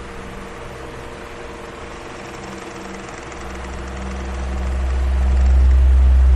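Electric fan running: a steady rush of air with a faint motor hum, under a low rumble that fades and then swells back up over a few seconds.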